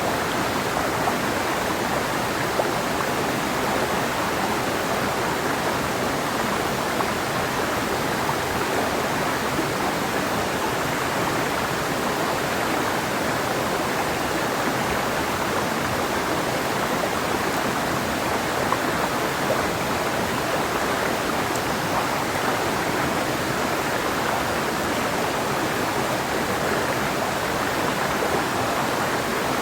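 Clear mountain river flowing over stones: a steady, even rushing of water with no breaks.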